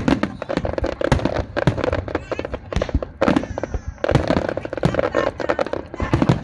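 Fireworks display: a rapid, irregular barrage of sharp bangs and crackles, several a second, from bursting aerial shells.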